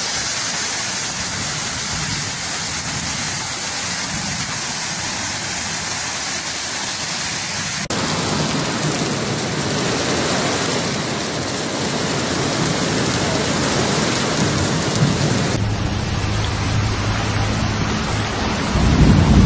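Heavy rain pouring down, a dense steady hiss that changes abruptly about eight seconds in and again near sixteen seconds as the footage cuts. A low rumble swells near the end.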